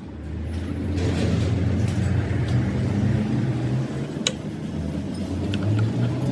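A workshop machine's electric motor starts and runs with a steady low hum, growing louder over the first second, with a sharp metallic tick about four seconds in.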